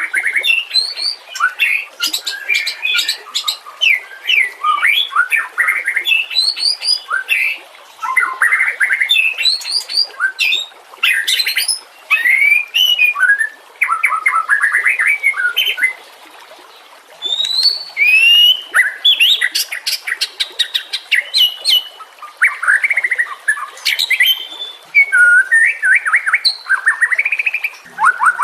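White-rumped shama (murai batu) singing: a long, varied run of whistled phrases, rapid repeated notes and quick rising and falling sweeps, with a brief pause about halfway through.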